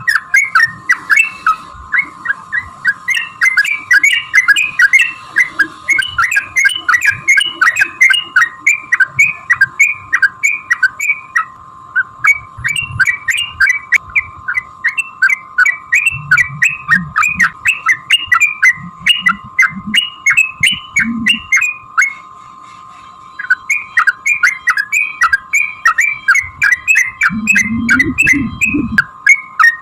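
Yellow-vented bulbul (trucukan) singing a long, rapid chattering song of short sharp notes, several a second, with a brief break about three quarters of the way through. A steady even tone sits beneath the song.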